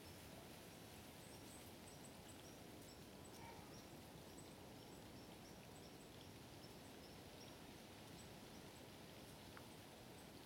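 Near silence: faint steady outdoor background hiss, with small high bird chirps repeating through it.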